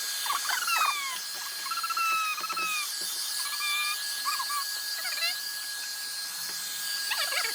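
Birds chirping: many short whistled calls that rise and fall, over a steady high-pitched hum.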